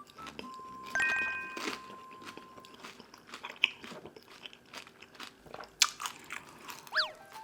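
Crunching bites and chewing of crisp-fried beef large intestines close to the microphone. A few short electronic tones sound near the start, and a falling tone sounds near the end.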